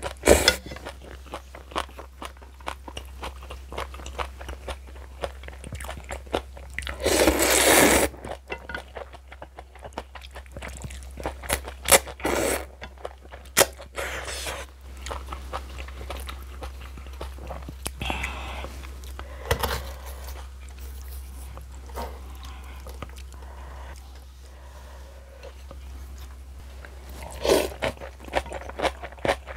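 Close-miked eating sounds: crunching and chewing of spicy kimchi, with scattered sharp clicks. There is a louder noisy burst about seven seconds in and another about twelve seconds in.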